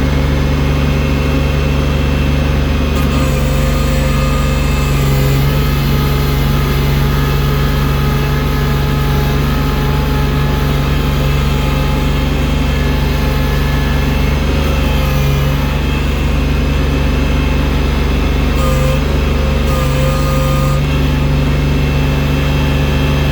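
Engine of a snow-clearing machine fitted with a loader bucket, running steadily and loudly with small shifts in pitch.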